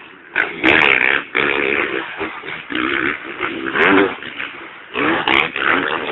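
Motocross bike engines revving in repeated surges, the pitch climbing and falling with each burst of throttle.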